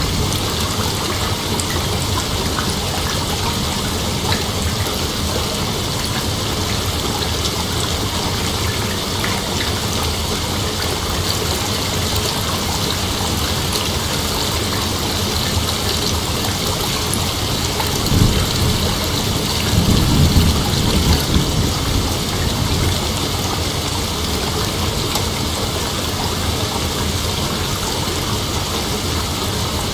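Steady rainfall, with two low rumbles of distant thunder swelling a little past halfway.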